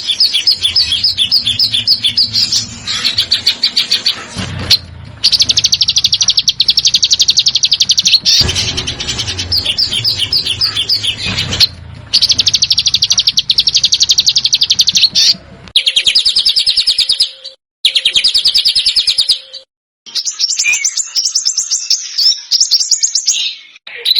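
A small songbird's rapid, high-pitched trills ('besetan'), in bouts of one to four seconds separated by short breaks, some cut off abruptly as in an edited, looped recording.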